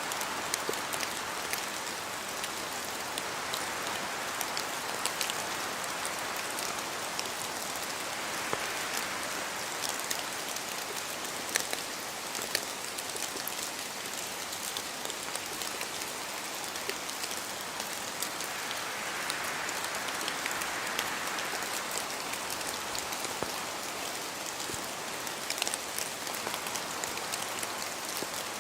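Steady rain falling in a forest, with many separate drops ticking and pattering on leaves and surfaces, and gentle swells in the hiss that come and go.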